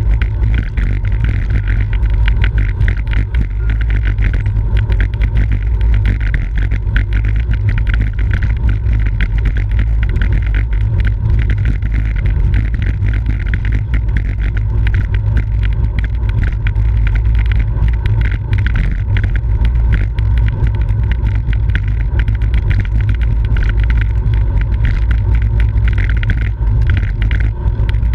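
Steady wind rumble over the microphone of a camera riding on a racing bicycle at speed, loud and unbroken, with a fainter hiss of tyres and drivetrain above it.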